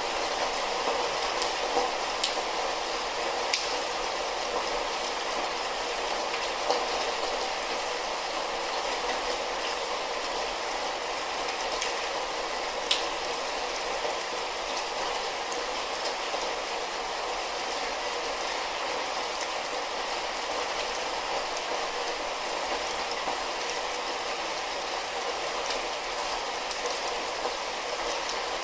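Steady light rain hissing, with scattered individual drops ticking now and then, one louder tick about thirteen seconds in.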